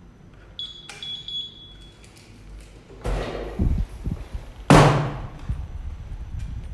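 A short high beep, then two loud bangs about a second and a half apart, the second the loudest, like something heavy being slammed shut.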